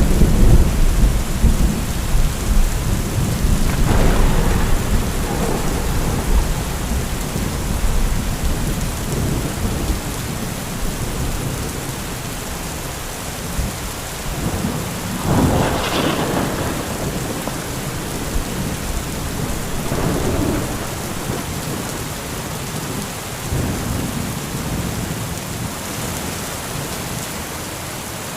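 Heavy rain falling steadily, with rolling thunder. A deep rumble at the start dies away over the first ten seconds or so, and the storm swells louder again about four and sixteen seconds in.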